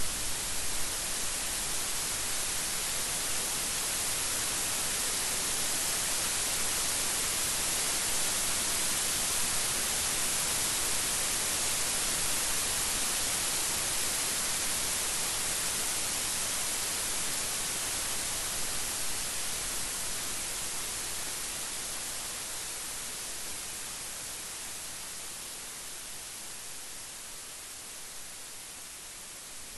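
Steady rain falling, a dense even hiss that eases off gradually over the last several seconds.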